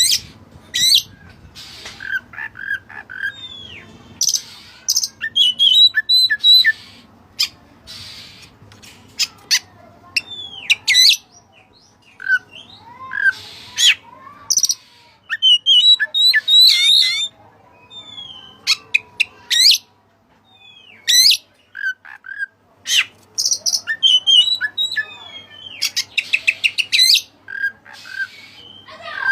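Oriental magpie-robin of the white-breasted kind singing loudly and without let-up. Its song is a varied run of whistled glides, sharp chirps and fast trills in short phrases with brief gaps, laced with mimicked cililin calls it has been trained on.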